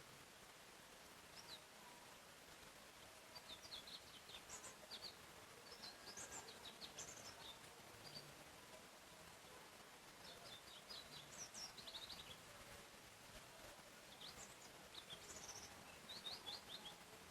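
Faint forest birdsong: a songbird gives short phrases of quick, high chirps again and again, over a steady soft background hiss.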